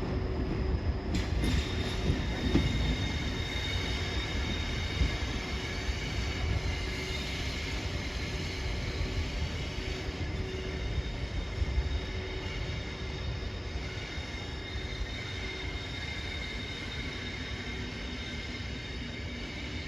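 Train running on rails: a steady low rumble with steady high-pitched squealing tones over it, easing off slightly in the second half.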